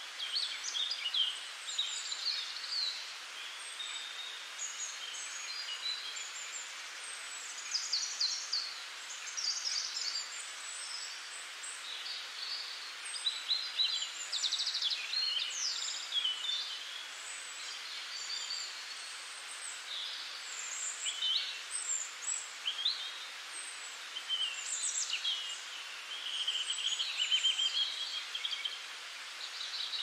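Birds chirping and singing: short varied calls and trills, one after another, over a steady background hiss.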